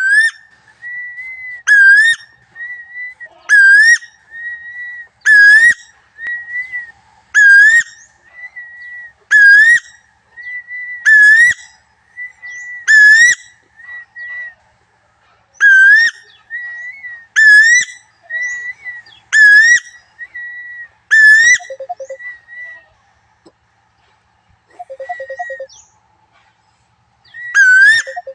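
Lure recording of a tuwu bird's call: a loud, clear whistle that dips and rises, repeated about every two seconds, with softer level whistles between. After about 22 s the calling pauses, with a few low, soft notes, and starts again near the end.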